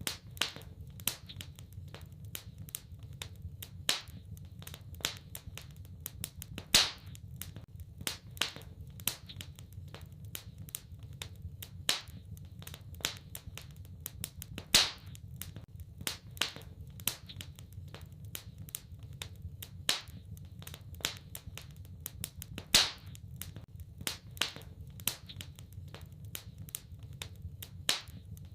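Wood fire crackling in a fireplace: irregular sharp pops and snaps, a few much louder than the rest, over a steady low rumble of the flames.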